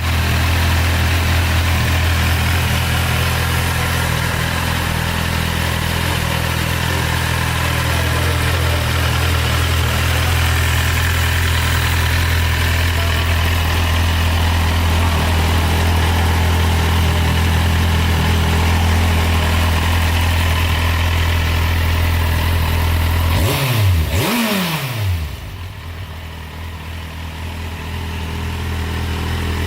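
Kawasaki Z800's inline-four engine idling steadily. About three-quarters of the way through come two quick blips of the throttle, rising and falling in pitch, then the engine settles back to a quieter idle.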